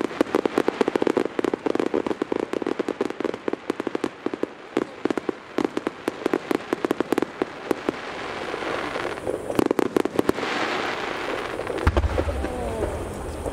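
Extra-large Super Vesuvius fireworks barrage: many bangs a second from shells bursting in rapid fire. After about seven seconds the bangs thin out into a rising wash of noise, with a last cluster of bangs near ten seconds.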